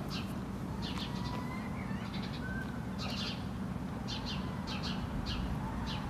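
Small songbirds giving harsh scolding alarm calls, short clusters of high chips about once a second, mobbing a cat near their nest. A few faint thin whistled notes and a steady low rumble run underneath.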